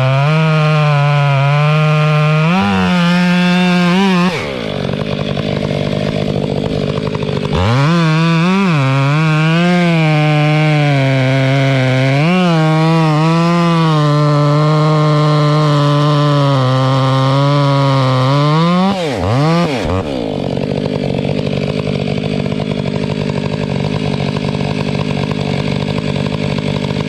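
Two-stroke chainsaw running at high revs, its pitch sagging and recovering under load as it cuts wood. The revs fall away twice, about four seconds in and again near twenty seconds, and after that it goes on with a rougher, less even sound.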